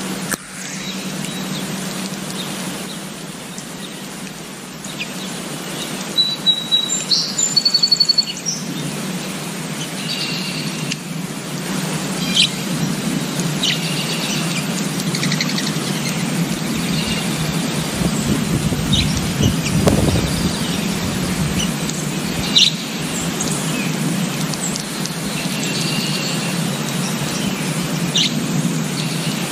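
Birds chirping with short, high calls scattered throughout, a quick run of them a few seconds in, over a steady low background rumble.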